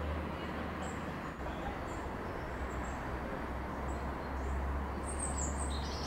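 Small birds chirping in short, high calls, scattered at first and more frequent near the end, over a steady low outdoor rumble.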